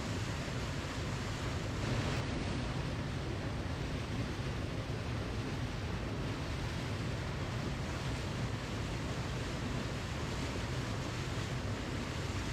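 Waterfall: a steady rush of falling water, with a slight swell about two seconds in.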